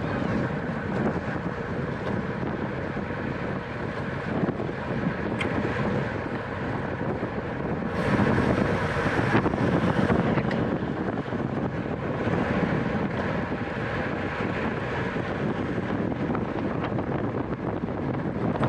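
Wind rushing over the microphone of a racing road bicycle's onboard camera, with steady road and bike noise underneath. It gets louder for about two seconds around eight seconds in.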